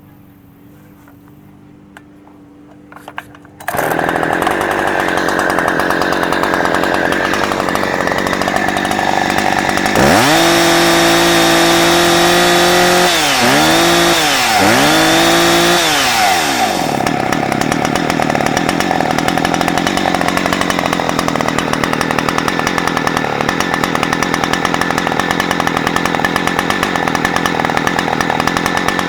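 Husqvarna 359 two-stroke chainsaw catching on the pull about four seconds in and running. Near the middle it is revved up for about seven seconds, dipping twice, then drops back to a steady idle.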